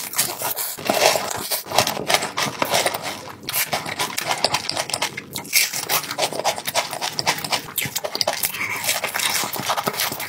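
Chewing fried chicken dipped in melted cheese sauce: a dense, continuous run of crackly crunches and wet mouth sounds.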